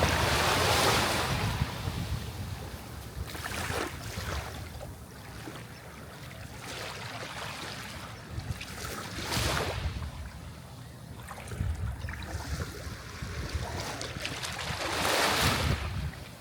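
Sea waves washing onto the shore, one surge after another, each swelling and then fading. The biggest washes come at the start and near the end, with smaller ones in between.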